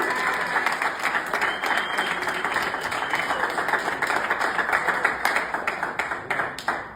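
A roomful of baseball players applauding, with dense clapping that cuts off abruptly at the end.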